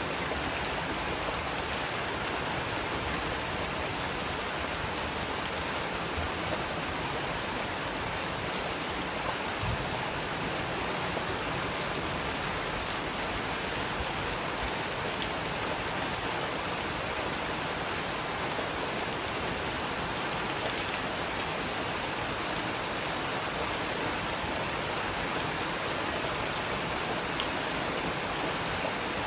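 Steady rain falling, with occasional small sharp pops and crackles from a wood fire, one of them louder about two-thirds of the way through.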